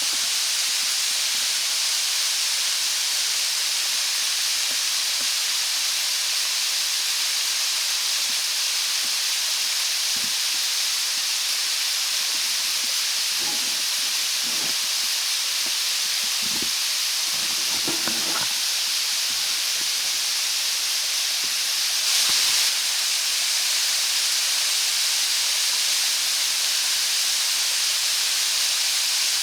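Steady hiss of rushing water in a mountain gorge, even and unbroken, with a few faint low knocks about halfway through and a brief louder surge near the end.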